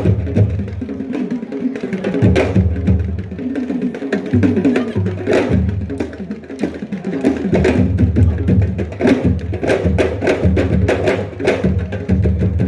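Drumming: many quick, sharp strokes in a dense, busy rhythm.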